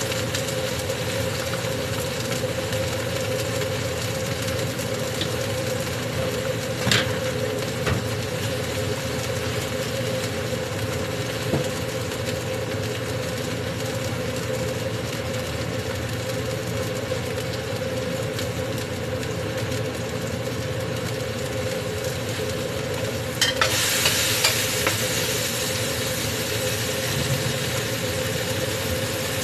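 Food frying in a pan with a steady sizzle under a constant mechanical hum, with a sharp clink about seven seconds in and a short clatter of utensils a few seconds before the end.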